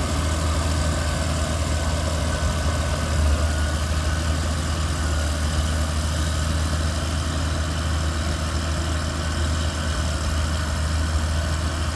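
Caterpillar D8 bulldozer's diesel engine running steadily at a low, even rumble.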